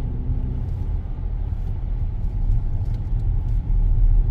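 Steady low rumble of a car driving on a snow-covered road, heard from inside the cabin: tyre and road noise with the engine underneath.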